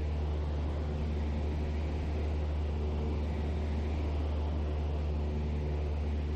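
Cessna's engine and propeller droning steadily in flight, heard inside the cockpit as an even low hum with a few steady tones over a wash of noise.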